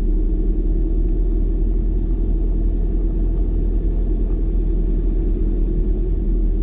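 Car driving at a steady pace: a low, even rumble of engine and road noise with a steady hum, unchanged throughout.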